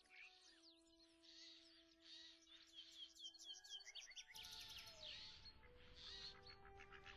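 Faint birdsong: several small birds chirping and trilling in quick repeated notes, over soft held notes of background music.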